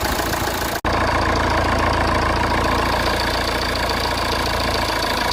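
Fiat Toro's 2.0 four-cylinder turbodiesel idling steadily with its normal diesel clatter. The scraping noise from the alternator pulley is gone, now that a new clutch pulley is fitted.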